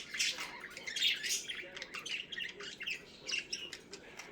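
Pet budgerigars chattering, a rapid run of chirps and squawks, busiest in the first second or so.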